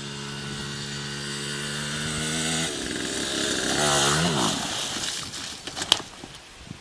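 Small motorcycle engine running at a steady pitch, then revving up and back down about four seconds in. A couple of sharp knocks follow near the end, and then the engine sound falls away.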